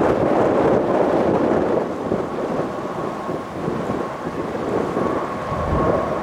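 Boeing 777 freighter taking off, its two large jet engines making a deep, rumbling roar with a faint steady whine above it. The roar eases about two seconds in and swells again near the end.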